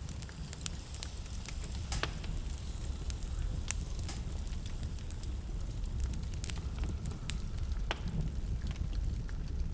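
Wood fire burning in a fireplace: a steady low rumble of flames with irregular sharp crackles and pops, a few of them louder, about 2, 4 and 8 seconds in.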